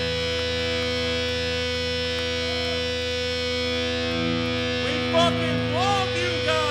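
Live hardcore band's distorted electric guitars holding one sustained, ringing chord, with short shouted voices coming in near the end.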